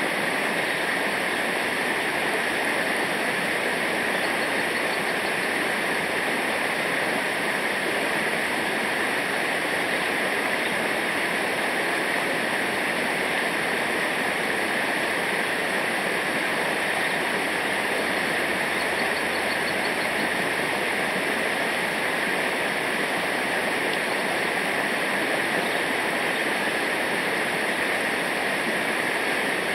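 Rushing water of a rocky river, a steady, unbroken rush.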